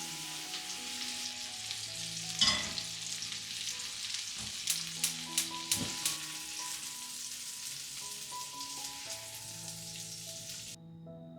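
Food sizzling in a hot frying pan, with one loud knock about two and a half seconds in and a quick run of four sharp clicks a couple of seconds later. The sizzle cuts off suddenly near the end.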